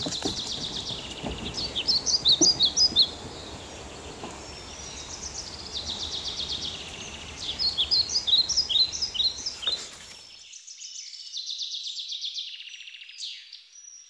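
Birds calling in rainforest: bursts of quick, high chirping notes and fast trills, over a steady background hiss that stops about ten seconds in.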